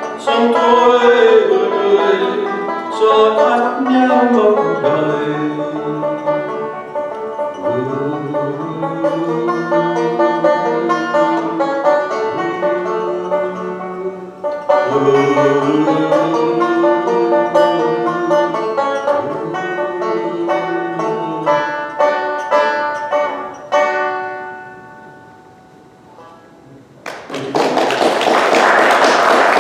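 Instrumental close of a slow folk song played on a plucked string instrument, its notes dying away about 24 seconds in. A few seconds later a loud, even rushing noise starts and holds.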